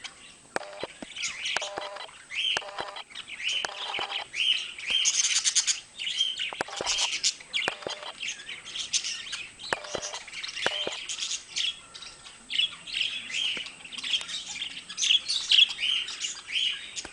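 Budgerigars chattering and warbling: a steady stream of short chirps, trills and scratchy notes.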